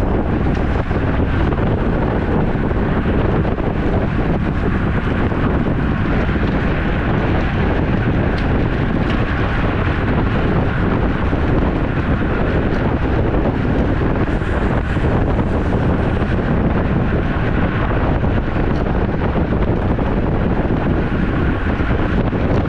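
Steady wind rush buffeting the microphone of a camera carried on a moving road bike.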